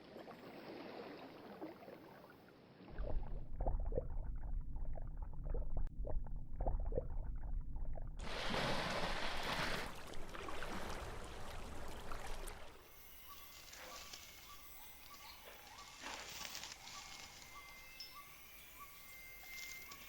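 Rainforest field recordings cut together: a rushing, sloshing water-like noise, a muffled low rumble with scattered clicks, then a loud rushing stretch. From about thirteen seconds in, a quieter forest backdrop takes over, with a steady pulsing call and rising whistled calls of rainforest animals.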